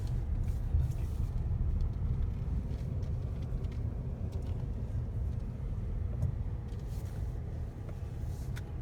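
Car driving slowly along a park road: steady low rumble of engine and tyres, with a few faint clicks.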